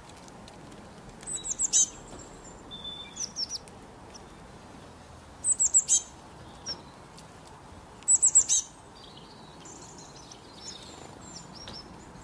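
Birds calling: three bursts of four or five quick, very high chirps, with a few softer single calls between them.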